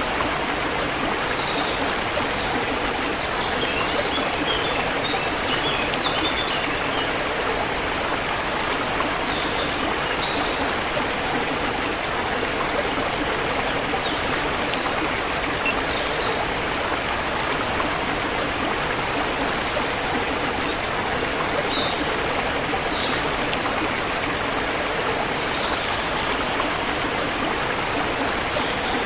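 Forest river flowing steadily over rocks, a continuous rush of water, with small birds chirping briefly now and then above it.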